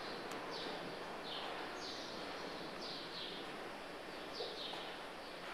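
Small birds chirping: short, high, falling notes repeated about twice a second, often in pairs, over a steady faint hiss.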